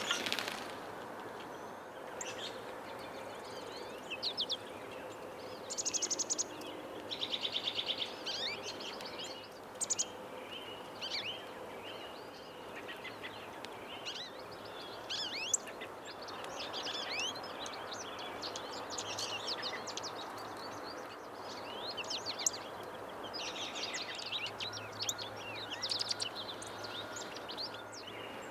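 Backyard songbirds chirping, with several rapid trills, over a steady background rush of noise.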